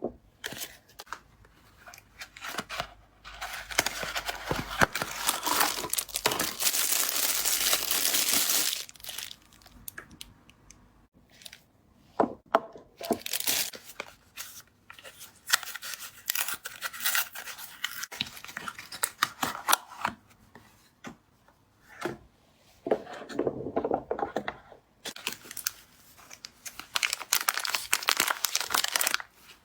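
Soap-cube packaging being torn open and crinkled by hand: one long steady tear a few seconds in, then shorter rustles and small clicks, and another spell of tearing and crinkling near the end.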